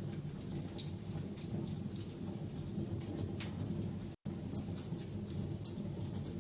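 Wood fire crackling in a fireplace: scattered sharp pops and snaps over a steady low rumble of the flames, with a split-second dropout to silence about four seconds in.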